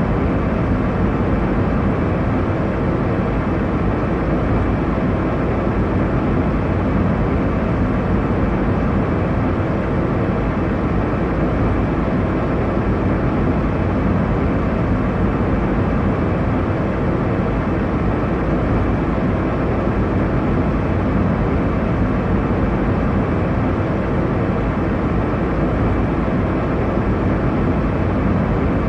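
Airliner cabin noise in flight: a steady, unbroken rumble and rush of engine and airflow noise, heaviest in the low range.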